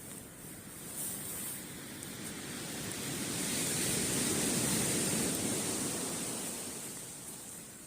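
Sea wave breaking and washing up the beach: a rushing swell that builds from about a third of the way in, is loudest around the middle and dies away near the end.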